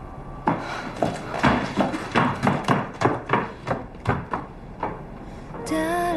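A quick run of sharp knocks or taps, about three to four a second, for some four seconds. Music begins near the end.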